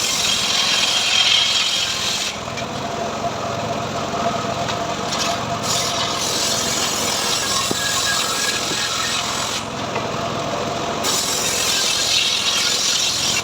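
Homemade engine-driven sawmill (srekel) cutting teak into boards: the engine runs steadily while the hiss of the blade biting into the wood comes and goes, loud in three stretches.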